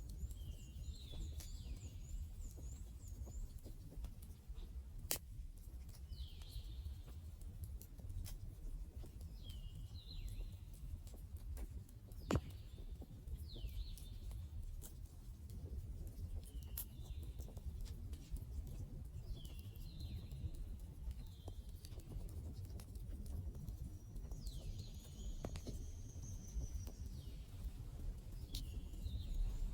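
Campfire burning with a low rumble and scattered crackles, including two sharp pops about five and twelve seconds in. Birds call repeatedly over it in short chirps, with a high trill near the start and a longer call near the end.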